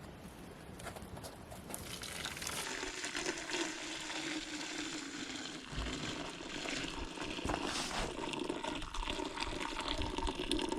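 Maple syrup boiling hard in a pan, a steady bubbling hiss with small pops that grows louder about two seconds in. The syrup is near its finishing point of about 217 °F.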